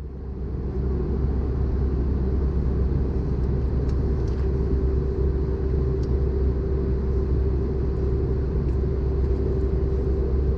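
Steady cabin drone of an Airbus A320-214 airliner in flight: a deep rumble of airflow and engines with a constant hum over it. It fades in over the first second.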